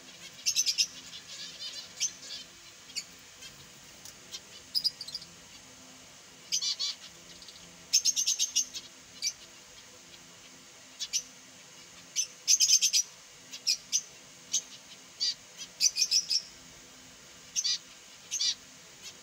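Finches chirping: short, high calls in scattered bursts, several quick notes at a time, with brief pauses between.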